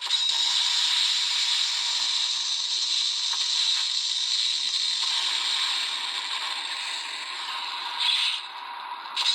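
Toy Gokai Saber's electronic sound effect playing through its small built-in speaker: a steady hissing sound with a fire sound layered in, which slowly fades, with two short bursts near the end.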